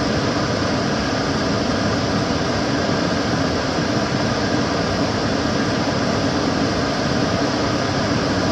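Kitchen cooker hood extractor fan running steadily: an even rush of air with a low hum underneath and no change in speed.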